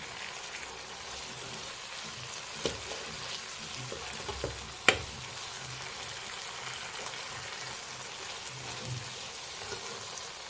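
Chicken, mushroom and capsicum in sauce sizzling as they fry in a nonstick pan, a steady hiss. A metal spoon knocks against the pan a few times, loudest about five seconds in.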